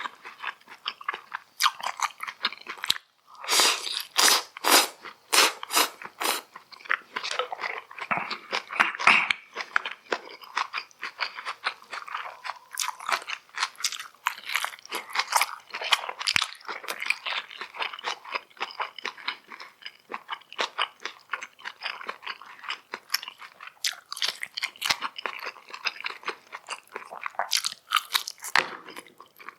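Close-miked chewing and biting of food, a dense run of sharp, crunchy mouth sounds, loudest a few seconds in.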